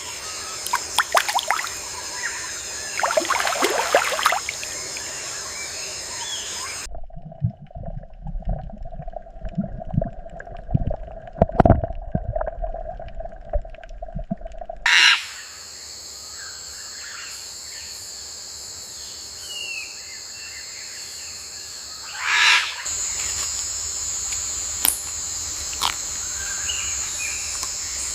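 Wild outdoor ambience: birds calling over a steady high-pitched hum. From about 7 to 15 seconds in, this gives way to a different stretch of low thumps over a steady tone.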